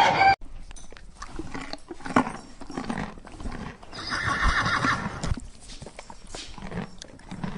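Horse whinnying, with a louder call about four seconds in, and scattered hoof clops.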